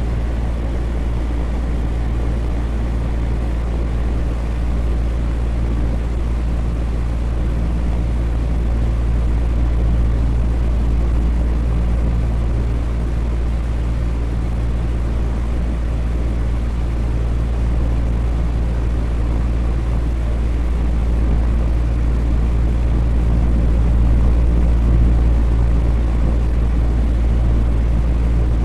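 Electric fan running steadily: an even whir of moving air over a low motor hum.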